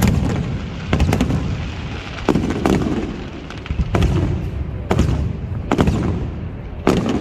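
Aerial fireworks display: about nine sharp shell bursts, roughly one a second and some in quick pairs, each trailing off in a low rumble.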